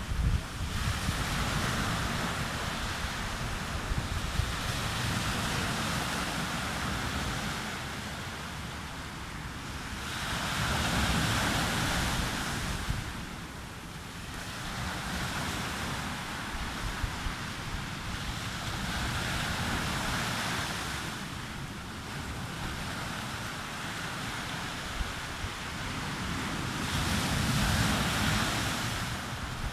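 Sea waves breaking and washing up a beach, the surf swelling and ebbing about every eight to nine seconds, with wind rumbling on the microphone.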